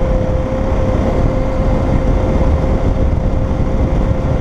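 Motorcycle riding at road speed: steady low rumble of engine and wind on the microphone, with a steady hum held at one pitch.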